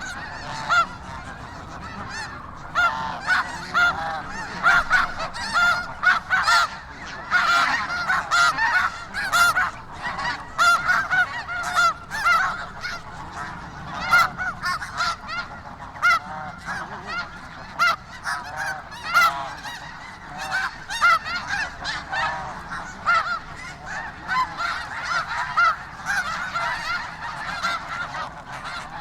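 A large flock of snow geese calling: a dense, continuous chorus of many overlapping high-pitched honks.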